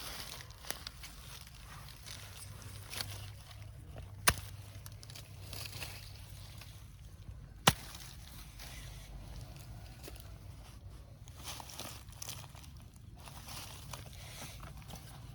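Two sharp knocks, about three and a half seconds apart, over a low steady hum and faint rustling movement.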